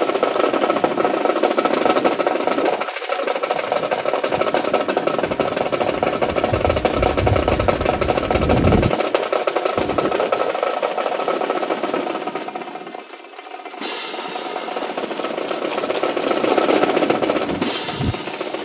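Rapid, dense clatter of many drill rifles being handled and boots striking the ground in unison during an honor guard's fancy drill, much like a drum roll.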